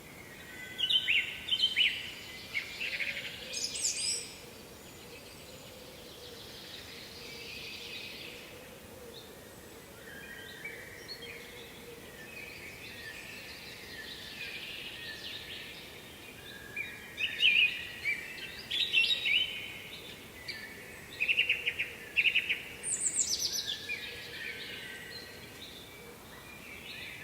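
Songbirds singing in short phrases of rapid, high chirping notes: one cluster near the start and two more in the second half, over a steady background hiss.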